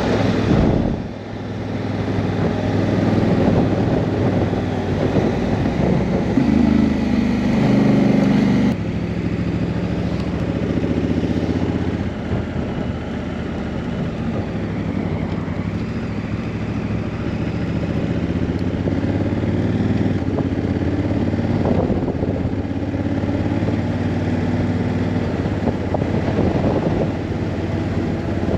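Honda CRF1000L Africa Twin's parallel-twin engine running at road speed, with wind rush, heard from the moving bike. Its note shifts abruptly about nine seconds in.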